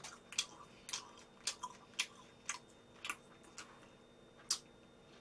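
A person chewing a mouthful of cold buckwheat noodles close to the microphone: a run of soft, wet mouth clicks, irregular, roughly two a second.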